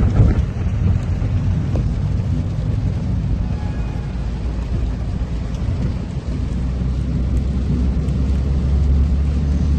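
A vehicle engine running with a steady low rumble, which settles into a steadier, stronger hum about six seconds in.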